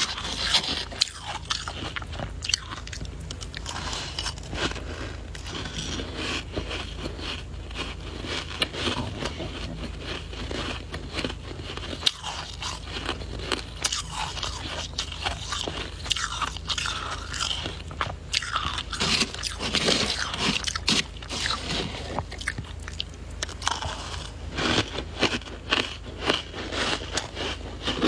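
Close-miked biting and chewing of soft white ice (freezer frost): dense, irregular crunching and scraping with no pauses.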